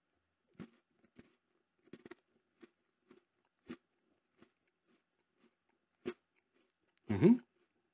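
A person biting into and chewing an M&M's Biscuit, a flat biscuit with chocolate cream and M&M's on top, with a few scattered soft crunches. Near the end comes a short, louder sound of the voice, the loudest thing here.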